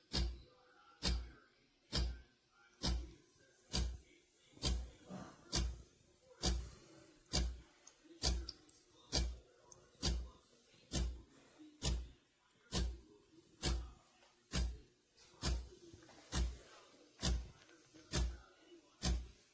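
A steady beat of sharp thumps, a little more than one a second, with faint tones in between.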